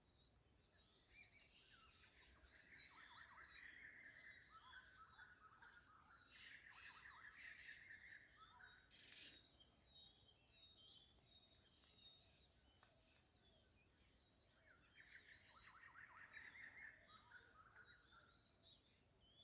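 Faint bird chirping and twittering in two stretches, a longer one from about a second in and a shorter one near the end, over near silence.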